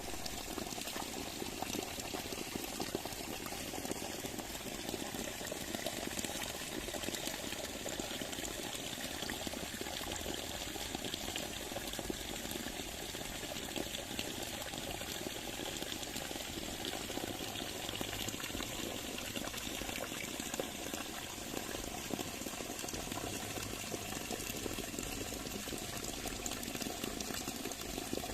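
Steady flowing water, an even continuous rush with no breaks.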